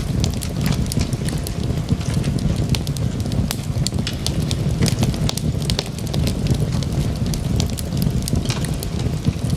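Wood fire burning logs in a fireplace: a steady low rumble of flames with frequent sharp crackles and pops at irregular moments.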